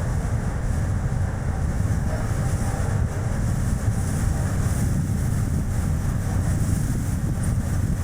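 Strong gusty wind rumbling on the microphone over the steady tyre and road noise of a Chevrolet Spark city car driving along.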